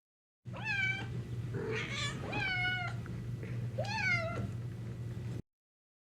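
Kitten meowing: three high-pitched meows and a shorter squeak, over a steady low hum.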